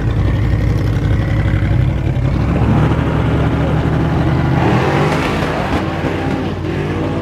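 Loud truck engine running at high revs, with a swell of broader noise about halfway through.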